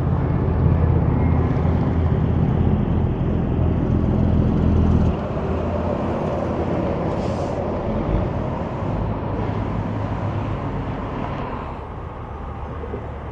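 Big truck diesel engine running with tyre and road noise as traffic passes on a highway. It is loud with a heavy low drone for the first five seconds, then drops abruptly to a quieter steady road noise that eases off near the end.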